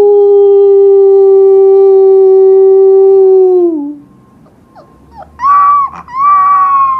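Husky puppy howling: one long, steady howl that drops in pitch and fades at about four seconds, then two shorter, higher howls near the end.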